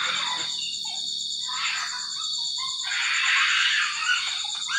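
Crickets chirping in a steady, fast-pulsing high trill, with a few short bursts of hiss-like noise over it.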